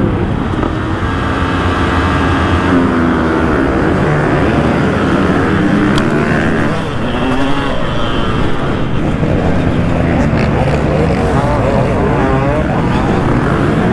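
Motocross bike engines, the rider's own two-stroke 2003 KTM 200 SX among several others, revving hard at the start of a race, their pitch repeatedly rising and falling. There is a single sharp tick about halfway through.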